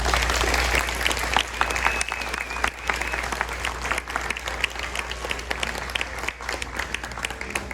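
Audience applauding after a performance, loudest in the first second or so and then easing off, with a few high voices cheering.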